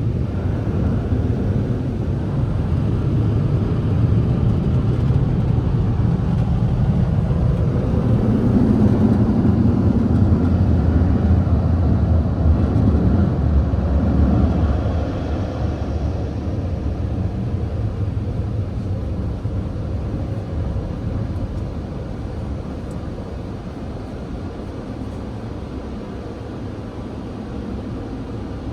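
Touch-free car wash dryer blowers running, heard from inside the parked car as a steady rush of air. It swells in the middle, drops about halfway through, then slowly fades. The driver judges the dryers to be drying poorly.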